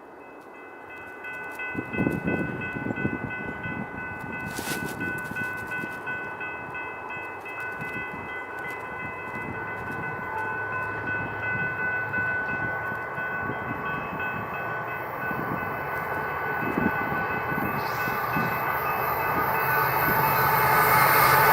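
Wisconsin & Southern freight train approaching and growing steadily louder, with a rumble of locomotives and rolling cars under several steady high ringing tones that hold throughout.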